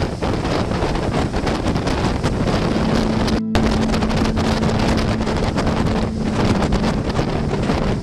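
Wind buffeting the microphone over a motorboat's steady engine hum. The sound cuts out for an instant about three and a half seconds in.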